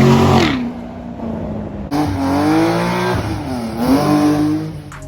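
Car engine revving hard. The revs drop away about half a second in; then another burst of revving starts abruptly about two seconds in, climbing, dipping and climbing again.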